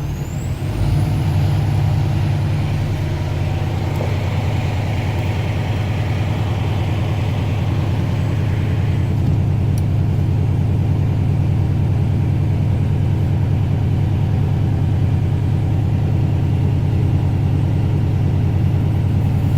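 Diesel truck engine running steadily, getting louder about a second in, while it drives the air compressor to build tank pressure toward the governor cutout at about 135 psi.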